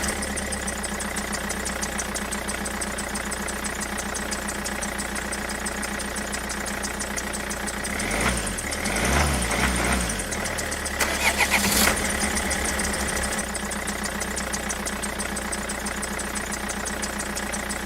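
An engine running steadily at idle, swelling louder for a couple of seconds about halfway through, with a short burst of louder sound just after.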